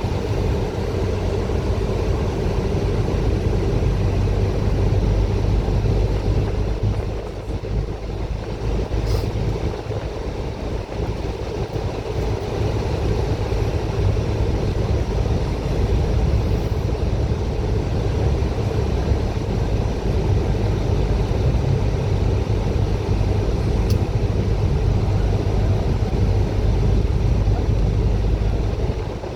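Bus in motion: a steady engine drone with road noise, easing slightly for a few seconds about eight seconds in.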